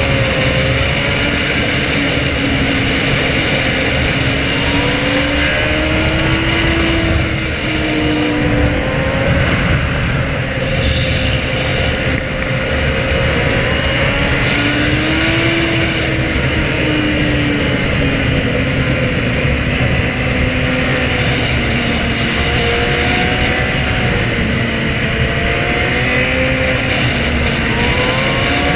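Inline-four sportbike engine pulling up and down through the revs over a steady rush of wind and road noise.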